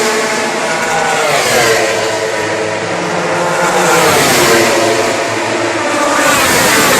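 Racing motorcycles passing at full throttle, several in turn, their engine notes climbing through the revs and dropping at gear changes.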